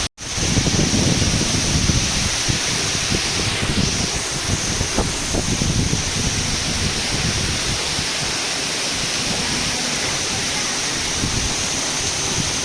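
Steady rush of falling water, with wind buffeting the microphone. The sound cuts out for a moment just after the start.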